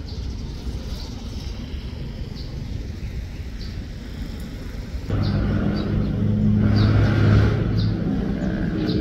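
Low rumble of a departing container freight train. About five seconds in, it cuts to the loud, steady engine hum of an SRT QSY-class diesel-electric locomotive approaching with a freight train.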